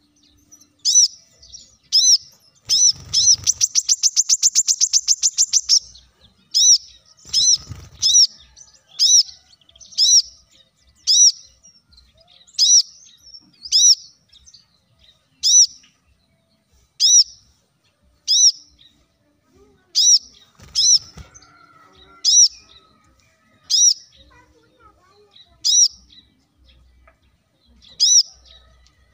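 Kolibri kelapa (brown-throated sunbird) calling: sharp, high chirps repeated about once a second, with a fast trill of about three seconds near the start.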